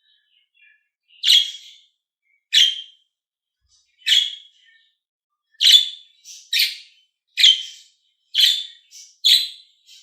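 Budgerigar calling: about eight short, sharp chirps, roughly one a second.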